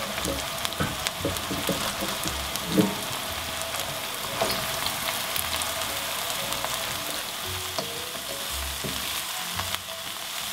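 Vegetables frying in an oiled wok: a steady sizzle as handfuls of bean sprouts, cabbage, peppers and carrots are dropped in and stirred, with a few light knocks, the loudest about three seconds in.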